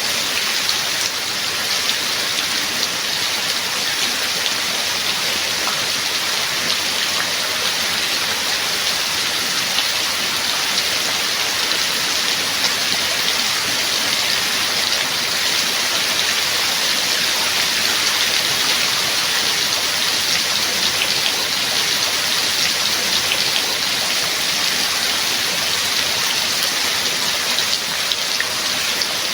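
Steady heavy rain falling, an even hiss of rain with many small drop ticks and no thunder.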